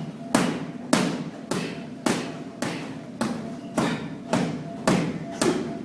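Punches landing on hand-held strike pads one hand at a time, about two sharp thuds a second in a steady rhythm, some ten strikes in all.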